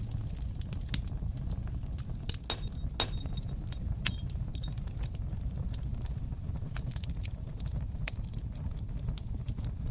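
Wood fire burning in a fireplace: a steady low rumble of the flames with irregular sharp crackles and pops, the loudest pop about four seconds in and another near eight seconds.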